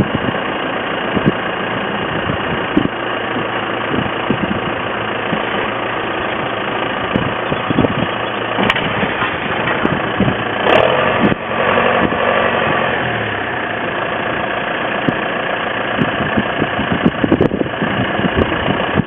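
Tractor engine idling steadily, with scattered clicks and knocks and a short, slightly louder stretch with a change in tone about eleven seconds in.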